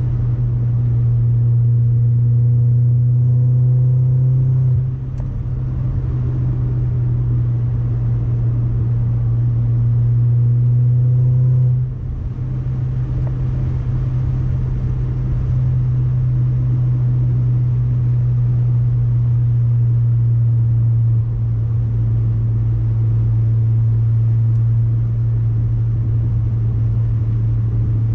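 Audi A4 1.8T turbocharged four-cylinder through an ECS catback exhaust with no resonator, pulling under acceleration. Its pitch rises twice, each pull ending in a sudden drop at a gear change about five and twelve seconds in, then it settles into a steady low drone.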